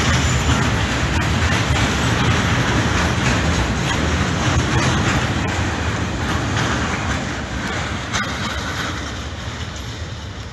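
Freight train rolling past on the rails, its wheels clattering steadily, the sound slowly fading in the last few seconds.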